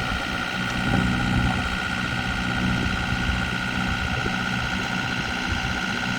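Heavy machine engine running steadily, with a constant high whine over a low engine hum.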